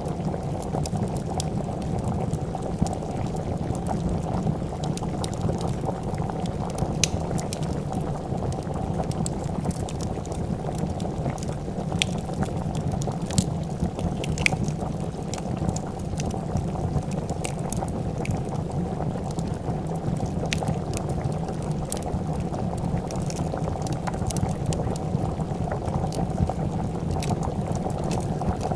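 Pot of soup bubbling at a steady boil, with scattered sharp crackles and pops from a wood fire, a few louder pops about halfway through.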